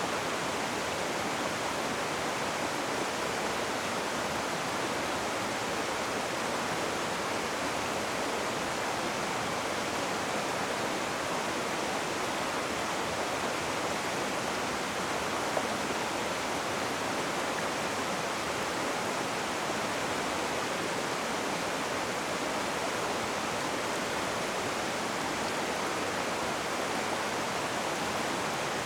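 Rushing river water: a steady, even hiss of fast-flowing water.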